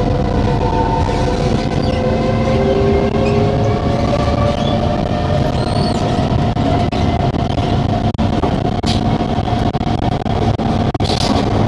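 Singapore MRT train running at speed, heard from inside the carriage: a steady rumble from the wheels and running gear with whining tones that drift slightly in pitch. A few sharp clacks come near the end.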